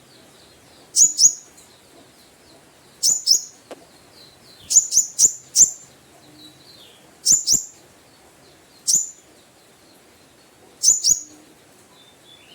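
Konin (kolibri ninja), a small sunbird, giving sharp, very high call notes in quick pairs and triplets about every one to two seconds, with faint twittering between them. These are the loud provoking calls used to draw out rival males.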